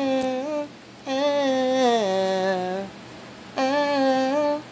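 A woman's voice holding three long wordless notes, hummed or sung, the middle one sliding down in pitch partway through.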